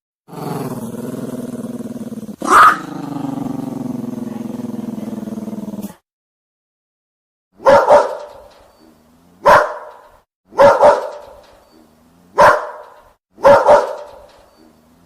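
A dog growling steadily for about six seconds, with one sharp bark in the middle, then after a short pause barking aggressively, deep barks about every one to two seconds, some in quick pairs, each with a short echo.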